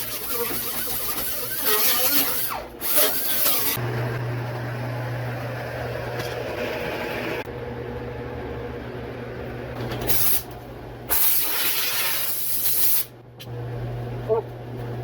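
Repeated short bursts of spraying hiss, each a second or two long, over a steady low hum.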